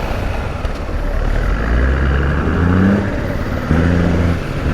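Triumph Daytona motorcycle engine accelerating while riding, pulling up through the gears with short breaks at the shifts, over steady wind noise on the helmet microphone.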